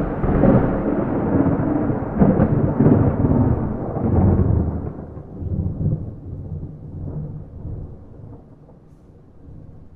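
A thunder clap rumbling: loud, crackling peals for about five seconds, then a long low rumble fading away. No rain.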